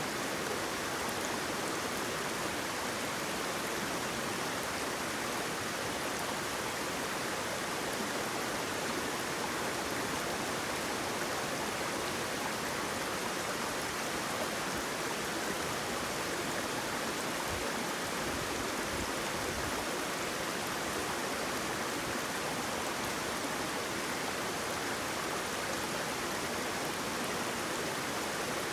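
Steady rush of flowing water from a stream or small waterfall, an even hiss without pauses or splashes.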